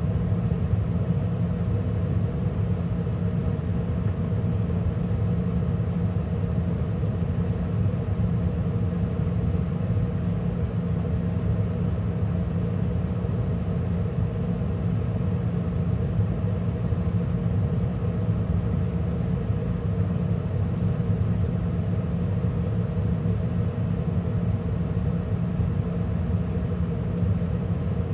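2013 Carrier gas furnace running steadily mid-cycle, with the inducer motor, gas burners and main circulating blower all on: a steady hum over even air noise.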